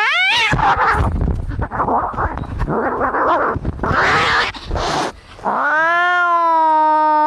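Domestic cats fighting: a short rising yowl, then about five seconds of harsh, noisy hissing and growling. About five and a half seconds in comes a long, drawn-out caterwaul that dips slightly and then holds steady.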